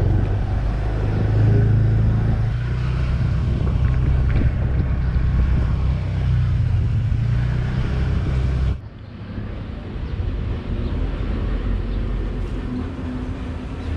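A motor vehicle running, with a steady low engine-and-road rumble. About nine seconds in, the sound drops suddenly to a quieter but similar rumble.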